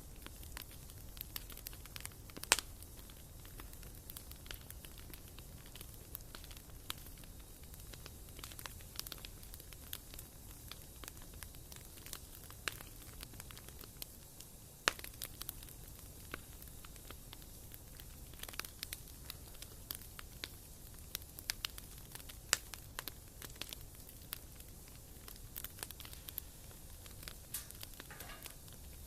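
Wood fire burning in a fireplace, crackling steadily with many small pops and a few sharper snaps, the loudest about two and a half seconds in.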